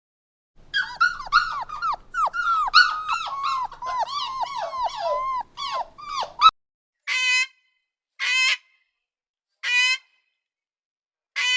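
Animal calls: a run of quick, high squeaks that each slide downward, several a second for about six seconds. Then four short, separate, quavering cries.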